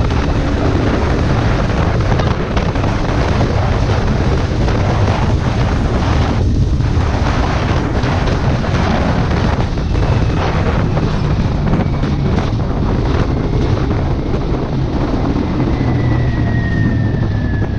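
Kawasaki Ninja 400 parallel-twin with an aftermarket exhaust running at riding speed, under heavy wind noise on the helmet or bike microphone. The engine eases off briefly about six and a half seconds in.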